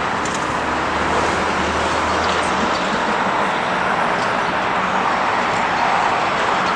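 Jet airliner's engines heard close by during a takeoff or landing pass: a loud, steady rushing noise that holds level throughout.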